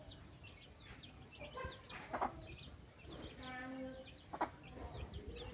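Chickens clucking, with one longer drawn-out hen call about three seconds in, over steady high chirping of small birds.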